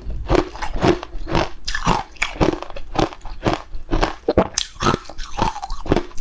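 A person chewing a mouthful of food close to a clip-on microphone, with wet crunchy chews coming evenly about twice a second.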